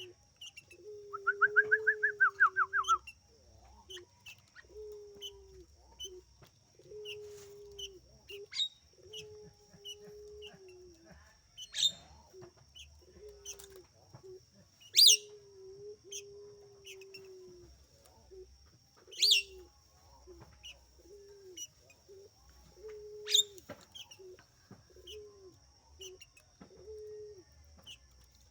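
Caged doves cooing over and over in a low note, with small birds chirping around them. Near the start a quick run of about a dozen higher chirps is the loudest sound, and a few sharp single calls come later. A faint steady high whine runs underneath.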